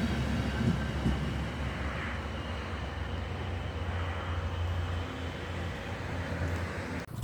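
A train running on the rails, a steady low rumble that slowly fades as it moves away, then cuts off abruptly near the end.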